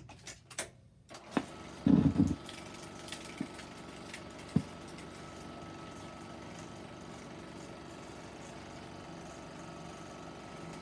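Run-in of a 16mm sound film before the newsreel audio starts: a few sharp pops and thumps in the first couple of seconds, then a steady mechanical hum and hiss with a faint thin tone.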